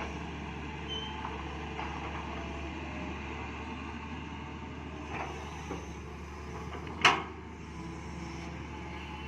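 Hitachi 200-class hydraulic excavator running steadily while digging, with a few sharp knocks from the working machine; the loudest comes about seven seconds in.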